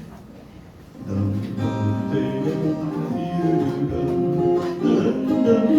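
Acoustic guitar starting to play a melodic phrase with chords about a second in, sustained notes overlapping.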